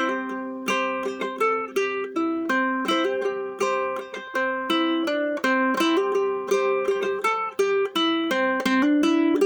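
Instrumental passage on a plucked string instrument: notes picked one after another in a steady pattern, about three or four a second, ringing over each other, without singing.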